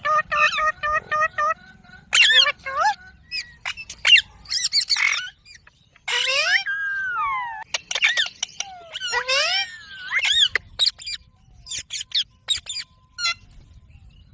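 Indian ringneck parakeet calling and chattering in a string of short, high-pitched squawks and clicks, with one longer call about six seconds in that falls in pitch.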